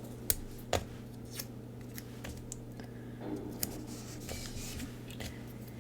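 Scattered small sharp clicks and a brief faint rub as stationery tape tools and paper are handled on a desk, over a faint steady hum.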